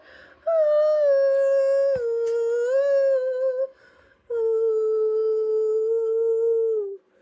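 A mezzo-soprano woman's voice singing long wordless held notes in two phrases with a short pause between; the pitch steps down a little during the first phrase, and the second is one long, steady note that sags slightly as it ends.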